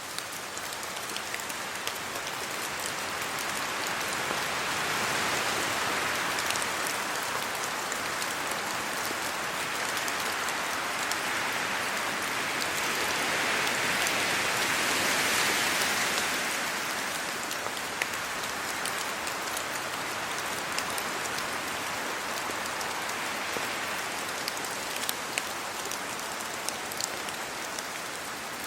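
Steady rain falling, with wind rustling the leaves of trees. The sound swells twice, and a few sharp single drips tick near the end.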